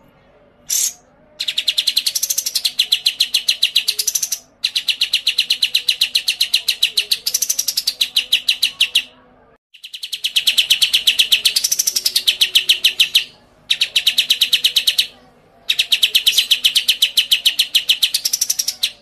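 Songbird singing long, rapid trills of about ten high notes a second in several runs separated by short pauses. A higher whistled note rises and falls over some of the runs.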